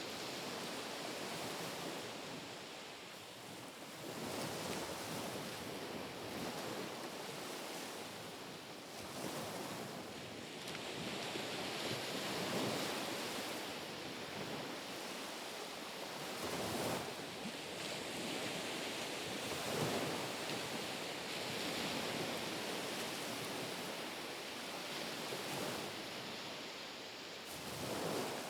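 Small, gentle ripple waves washing onto a shore one after another: a steady hiss of water that swells and eases every few seconds as each wave comes in.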